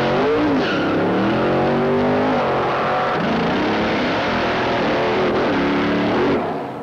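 Hot rod engine revving hard through open exhaust pipes, its pitch rising and falling in several surges. The sound cuts off suddenly about six seconds in.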